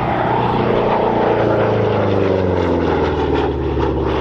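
A P-47 Thunderbolt fighter's piston engine and propeller passing in a flyby, the engine note falling steadily in pitch as it goes by.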